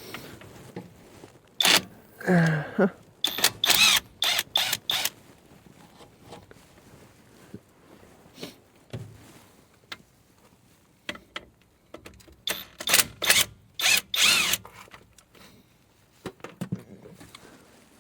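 Cordless impact wrench run in short bursts, undoing brake caliper bolts: a cluster of bursts in the first five seconds and another cluster about twelve to fifteen seconds in.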